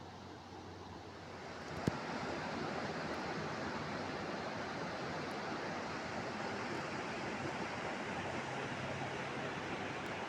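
Steady rushing of flowing water, swelling in about two seconds in and then holding even, with one sharp click as it rises.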